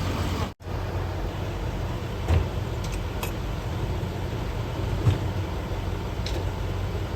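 Steady city street noise with vehicle engines running and a low hum. The sound drops out for an instant about half a second in, and a few faint short knocks follow.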